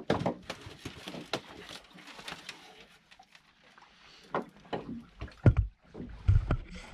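Knocks and clicks on a small fishing boat, with two heavy low thumps about five and a half and six and a half seconds in.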